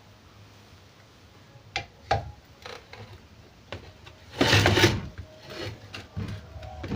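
Metal parts of a sewing machine being handled and shifted into position: a few light knocks and clicks, then a short, loud scraping rub about four and a half seconds in.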